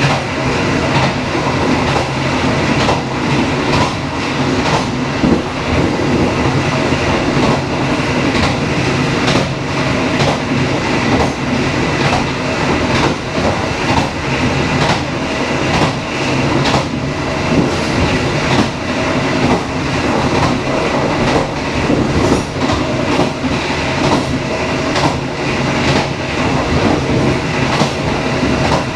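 Dharmawangsa passenger train running steadily, wheels clicking over the rail joints over a continuous rumble.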